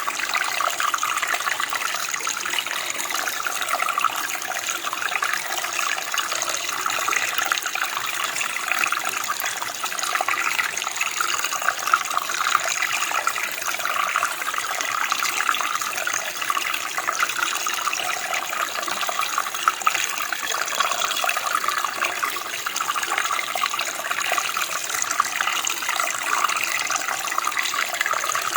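Running water: a steady stream or brook flowing over stones, an even splashing and burbling that holds at one level throughout.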